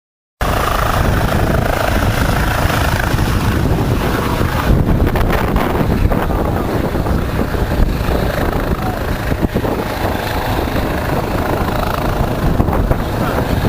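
Helicopter overhead and a boat motor running together, with wind buffeting the microphone. The sound starts abruptly just under half a second in and stays steady and loud.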